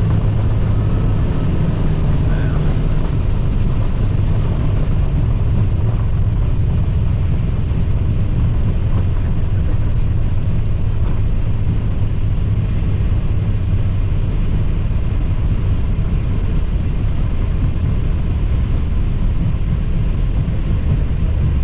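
Airbus A320 on its landing roll, heard inside the cockpit: a loud, steady engine and airflow rumble with a deep hum that eases slightly about two-thirds of the way through.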